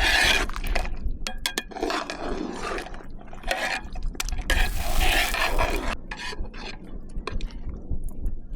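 Cooking utensils scraping, stirring and clinking against a pot or pan, in irregular strokes with sharp clicks and a few longer scrapes.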